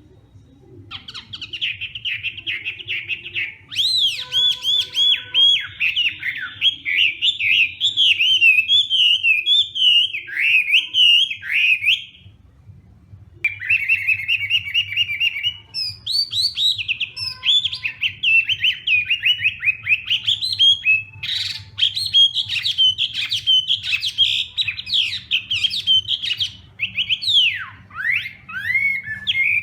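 Chinese hwamei singing a long, varied run of rapid whistled and swooping phrases, pausing for about a second and a half around twelve seconds in before starting again. A faint low hum lies underneath.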